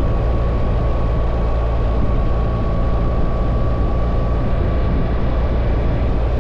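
BMW R1300 GS boxer-twin motorcycle being ridden at a steady speed: a constant low engine drone mixed with a steady rushing noise, with a faint thin whine above it.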